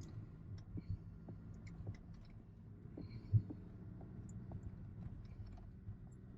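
Quiet room tone: a steady low hum with scattered light clicks and knocks, and one louder thump a little over three seconds in.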